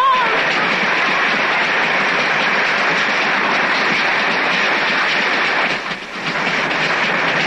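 Passenger train running at speed: a steady rushing noise of wheels and carriages, dipping briefly about six seconds in.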